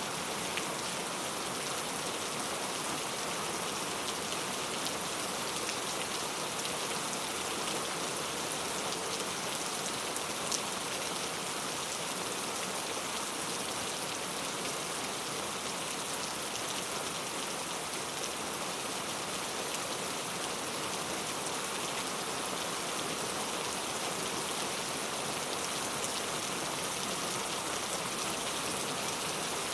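Heavy rain falling steadily, a dense even hiss with a few sharper drop impacts standing out.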